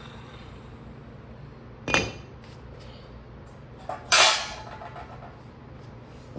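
Two loud metallic clanks about two seconds apart, each ringing briefly: metal tools or parts being set down or knocked together, the second preceded by a lighter knock.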